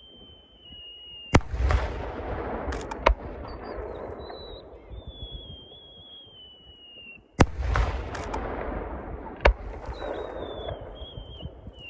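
Aerial firework shells bursting: two loud bangs about six seconds apart, each followed by a crackling shower, with a few more sharp cracks in between.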